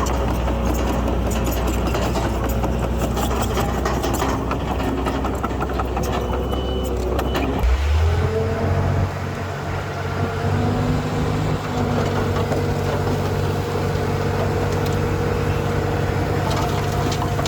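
Heavy diesel machinery running, with rapid clanking over a low engine hum for the first half; about eight seconds in, the engine note shifts abruptly to a steadier, higher pitch.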